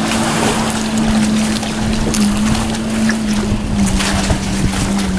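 A watercraft engine running at a steady pitch, with wind buffeting the microphone and water noise.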